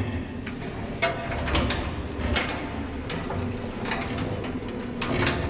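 A run of irregular clicks and knocks with a mechanical, creaking rattle over a low rumble. A brief thin tone comes in about four seconds in.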